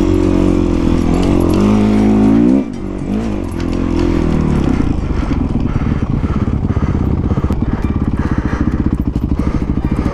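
Music ends about two and a half seconds in. A Honda CRF450 dirt bike's single-cylinder four-stroke engine then runs steadily with a fast, even firing beat.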